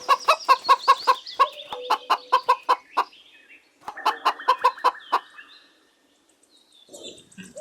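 Hen clucking in a fast run of about five clucks a second, then a short pause and a second, shorter run of clucks.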